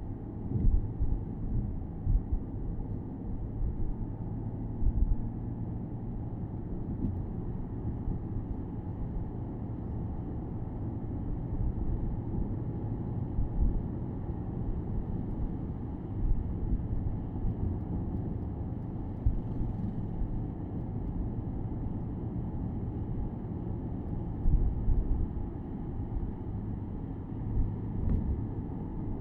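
Porsche Boxster S 987.2's 3.4-litre flat-six engine and road noise heard from the open-top cabin while cruising, a steady low rumble with a few short low thumps.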